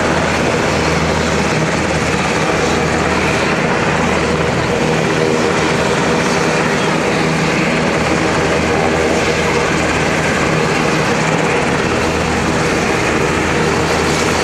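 Helicopter running, a loud steady drone with an even low hum that holds without change.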